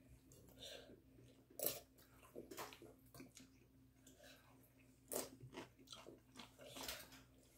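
A child quietly chewing mouthfuls of rice cake and beef stir-fry, with soft, irregular chewing and mouth sounds every second or so.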